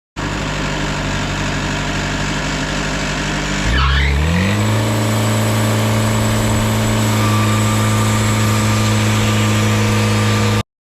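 Small gasoline engine running steadily, then speeding up about four seconds in to a higher, steady speed, with a brief rising chirp as it picks up.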